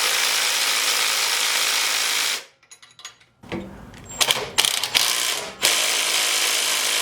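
Hand ratchet wrench clicking rapidly while nuts and bolts on a mini bike are tightened. It runs in two long stretches with a brief pause about two and a half seconds in, and a few short strokes in between.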